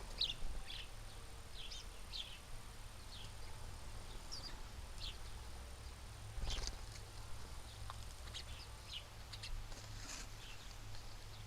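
Small birds chirping at a feeder: short, high chirps scattered irregularly, with one louder knock about six and a half seconds in, over a steady low rumble.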